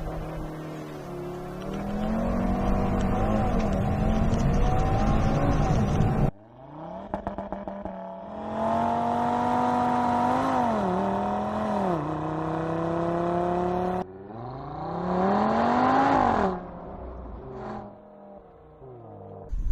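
2019 Audi TT RS's 2.5-litre turbocharged five-cylinder engine accelerating, its pitch climbing and then dropping back sharply as gears change. The sound comes in several segments that cut off suddenly about six and fourteen seconds in.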